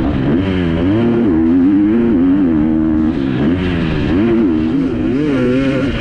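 250 cc motocross bike engine at full throttle on track, heard on board; its pitch climbs and drops again and again as the rider accelerates and shifts.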